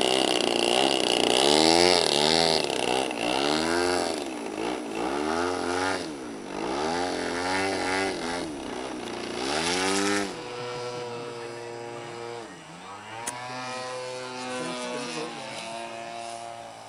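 Small engines of large radio-controlled model airplanes buzzing, the pitch swinging up and down again and again as the planes pass and change throttle. About ten seconds in the sound drops in level and becomes steadier.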